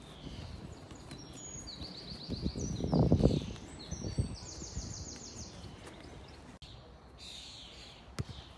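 Small birds chirping, with quick runs of repeated high notes. A louder, dull low thud comes about three seconds in.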